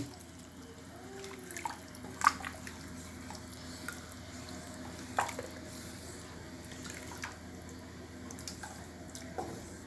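Chicken stock being poured, a steady trickle of liquid with a couple of light knocks.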